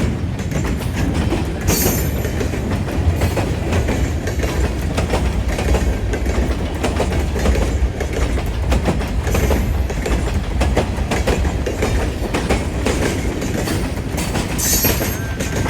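Freight train rolling past, its wheels clicking rhythmically over the rail joints above a steady low rumble. Brief high-pitched screeches sound about two seconds in and again near the end.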